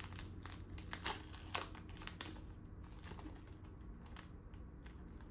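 Trading cards being handled and shuffled through by hand: irregular light clicks and short slides of card stock against card stock, busier in the first two seconds and sparser after.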